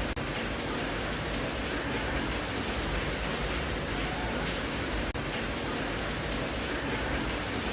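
Steady rain, an even hiss with two very brief dropouts, one right at the start and one about five seconds in.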